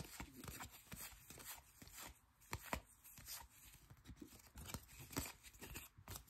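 Faint, irregular taps and rustles of baseball trading cards being handled and flipped through.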